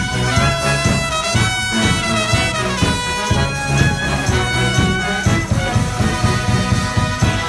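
Live brass band playing an upbeat tune, the horns holding notes in harmony over a steady beat.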